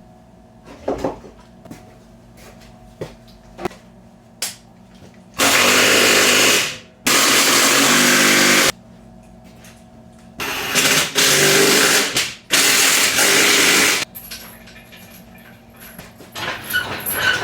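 A power tool run in four bursts of about a second and a half each, starting and stopping abruptly, with scattered clicks and knocks of hand work before and after.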